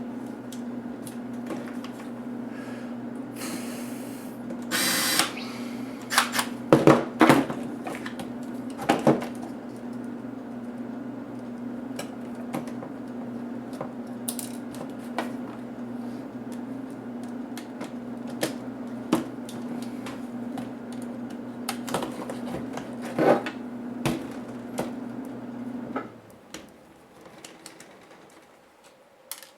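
Clicks, taps and a short scrape of small plastic and metal HP DV4 laptop parts being handled and pried apart during disassembly. A steady low hum runs underneath and stops about three seconds before the end.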